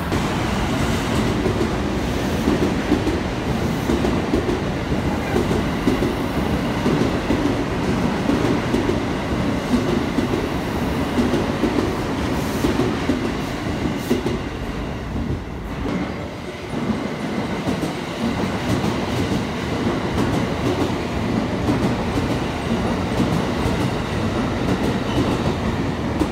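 Limited express trains running past a station platform: a continuous rumble with the clatter of wheels over rail joints, easing briefly about two-thirds of the way through before building again.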